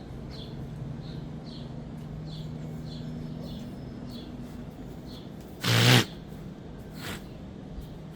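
Animal calls: short high chirps repeating about twice a second over a steady low hum, with a loud, harsh call about six seconds in and a shorter, fainter one about a second later.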